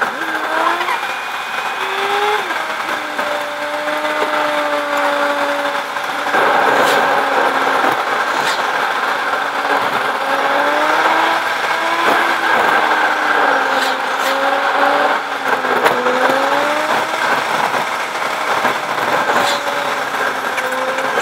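Car engine heard from inside the cabin while driving, its pitch rising and falling with the revs and dropping sharply a few times, over steady road and wind noise that grows louder about six seconds in.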